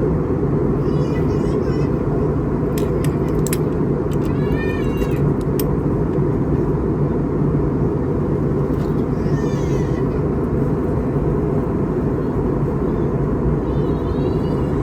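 Steady, loud cabin noise of an Airbus A321neo airliner in flight, a deep rushing hum. Faint, high-pitched wavering calls rise over it about four times, and a few sharp clicks come a few seconds in.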